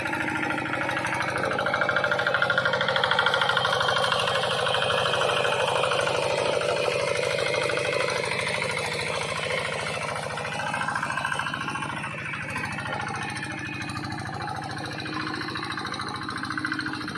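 Engine of a hand tractor modified with a seat, running steadily as it works a rice paddy. It is louder for a couple of seconds near the start, then quieter.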